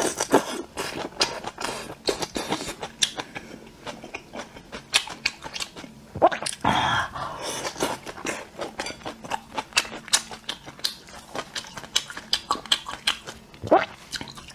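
Close-miked chewing and biting of chili-sauced skewered food: a bite at the start and another about seven seconds in, with a steady run of wet chewing and lip-smacking clicks in between.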